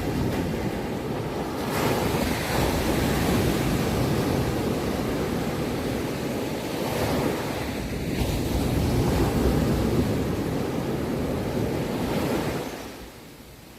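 Ocean waves breaking and washing in, a long rushing surge that swells twice and dies down about a second before the end.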